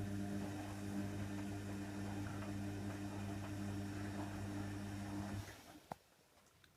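Hoover Nextra washer dryer's drain pump humming steadily with a rushing, gurgling water sound, then cutting off abruptly about five and a half seconds in, followed by a single click.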